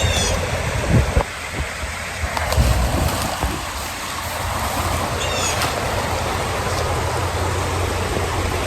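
Steady outdoor noise with a low rumble and a few low thumps in the first three seconds, typical of wind buffeting the microphone. Two brief clusters of high chirps, at the start and about five seconds in.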